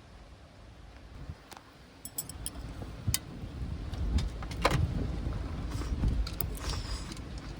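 Strong wind gusting and buffeting the microphone, with a low rumble that swells from about two seconds in. Scattered sharp clicks and small rattles sound through it.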